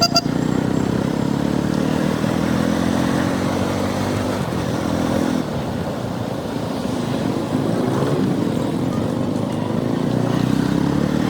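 KTM 200 Duke's single-cylinder engine running under way, its pitch rising and falling with the throttle. A short high-pitched beep sounds right at the start.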